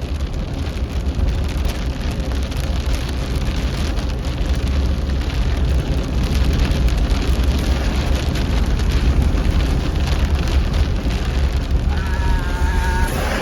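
A car driving in rain, heard from inside the cabin: a steady low road rumble with rain hitting the car. Near the end a short pitched tone sounds for about a second.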